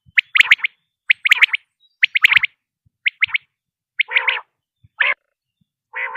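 Quail calling: clusters of two or three short, sharp whistled notes about once a second, with a few rougher, lower notes from about four seconds in.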